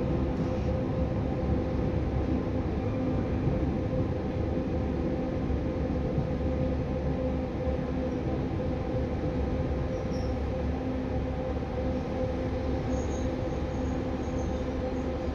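Passenger train running steadily, a constant hum over a low rumble, with faint high squeals near the end.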